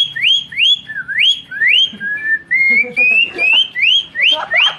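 A boy whistling an imitation of a greater green leafbird (cucak hijau) song: a quick run of rising whistled notes, about three a second, with a few flatter notes stepping slowly upward in the middle.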